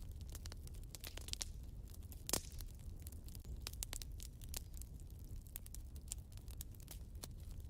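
Wood fire in a fireplace crackling, with irregular sharp pops over a low rumble of the flames and one louder pop a little over two seconds in.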